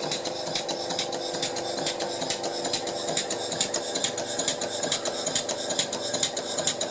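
Stuart Turner Victorian horizontal mill engine model running on compressed air, its exhaust beating in a quick, even rhythm of about six puffs a second over a steady hum. It runs smoothly, with no knocking.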